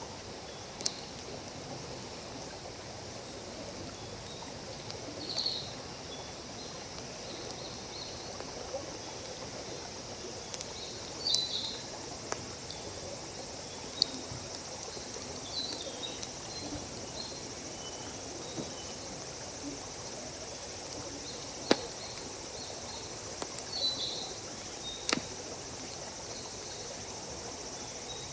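Wood fire burning with a few sharp crackles and pops, over a steady hiss of flowing water and short insect chirps every few seconds.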